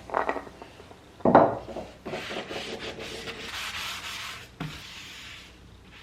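Rubbing and scraping handling sounds: two short scrapes, the second louder, then a longer stretch of scraping, with a short knock near the end.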